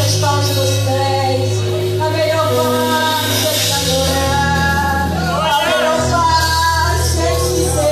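Live gospel worship music: voices singing over a band, with long held bass notes that change about every two to three seconds.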